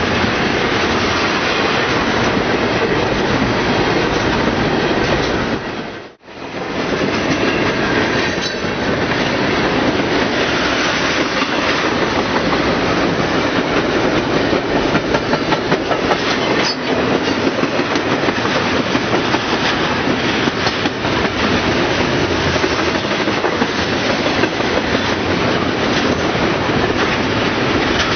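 Freight cars of a CSX intermodal train rolling past close by, with a steady rumble and the clickety-clack of wheels over rail joints. The sound cuts out briefly about six seconds in.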